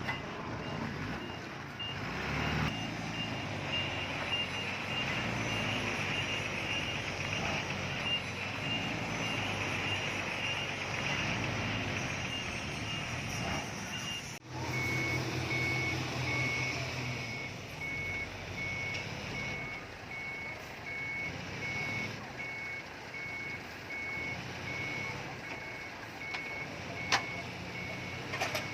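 Heavy-equipment reversing alarm beeping over a running diesel engine: a rapid high beep, then after an abrupt cut about halfway, a lower, slower beep from another machine. Two sharp knocks near the end.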